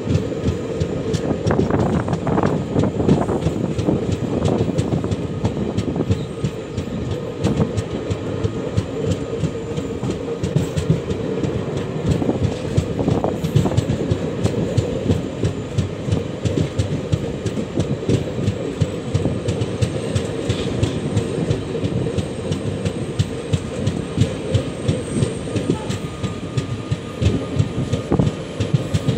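Indian Railways passenger express running at speed, heard from inside a coach: a steady rumble with a fast, continuous rattle and clatter of wheels over the track.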